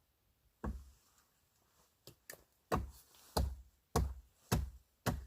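Wood being struck hard: a single knock, then after two light taps a steady run of five heavy knocks, each with a deep thud, about every half second, as in hammering or chopping on the fort's timbers.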